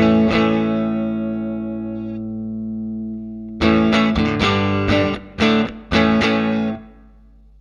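Electric guitar, a Fender Stratocaster, played through a Line 6 Helix amp-and-cab model with some distortion. A chord rings out and fades for about three seconds, then a quick run of strummed chords stops short, leaving a faint hum.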